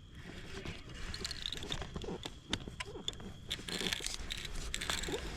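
Fishing reel's drag clicking irregularly as a big northern pike pulls line off against it during the fight.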